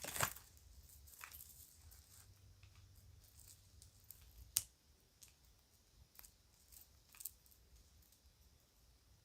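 Kids' jewelry and bags being handled: scattered light clicks and ticks over faint rustling. The sharpest click comes just after the start, with others about four and a half and seven seconds in.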